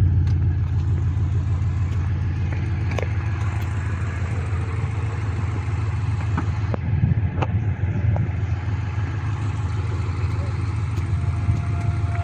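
2017 Audi S8 Plus twin-turbo V8 idling steadily, a deep low rumble through a modified Fox valved stainless dual exhaust with resonators and centre pipe deleted. A few light clicks sound over it.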